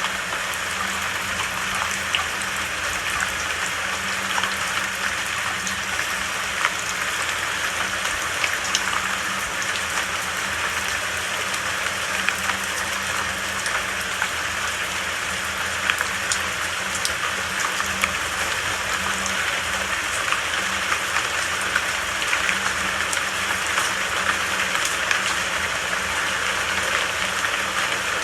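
Steady rain falling, an even hiss with many individual drops pattering throughout.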